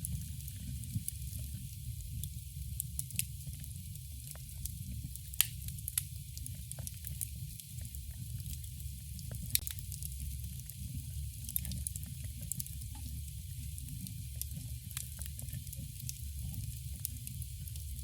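Campfire crackling: a steady low rumble with hiss on top and many irregular sharp pops, the loudest about five and a half, six and nine and a half seconds in.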